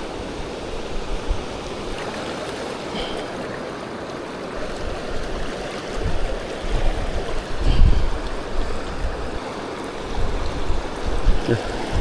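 Rushing river water, a steady wash. Gusts of wind buffet the microphone about halfway through and again near the end.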